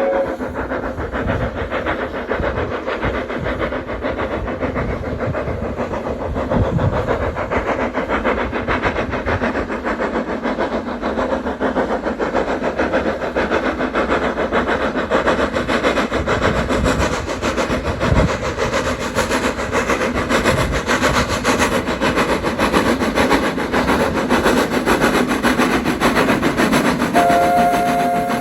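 Train running on a heritage railway, a loud steady rumble and clatter that grows a little louder about six seconds in.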